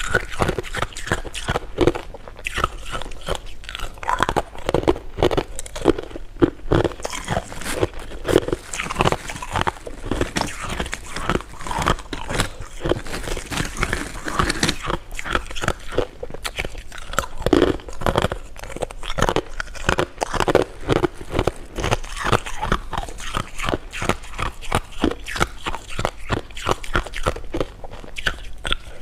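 Close-miked ASMR eating: continuous chewing and crunching of candy, a dense run of many small crisp clicks each second.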